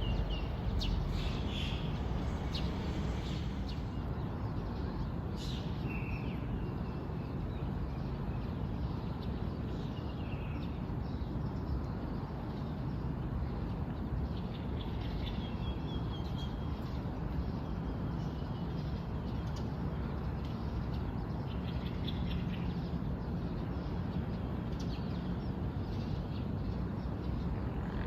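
Small birds chirping and calling now and then, short high calls scattered throughout, over a steady background rush of outdoor noise.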